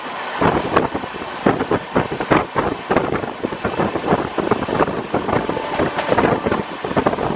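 Two express trains running side by side at high speed: a dense, irregular clatter of steel wheels over rail and a rush of air, with wind buffeting the microphone at the open coach door as a train of LHB coaches passes close alongside.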